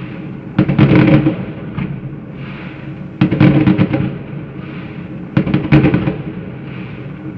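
Fireworks salute volleys bursting overhead: three volleys about two and a half seconds apart, each a cluster of deep bangs lasting about a second.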